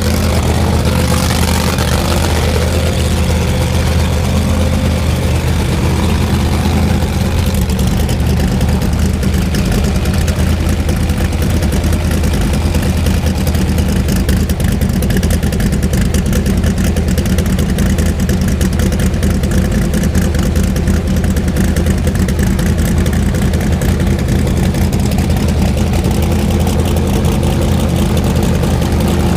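Pro Modified drag-racing engines idling steadily, a low, even engine note with no revving.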